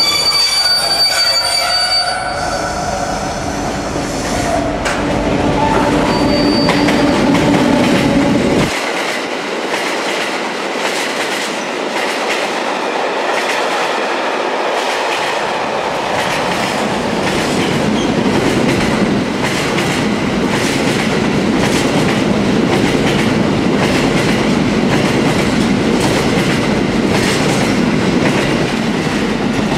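Freight train of tank wagons rolling past at close range. High wheel squeal sounds in the first few seconds, then a steady rumble with rhythmic clacking of the wheels over the rail joints.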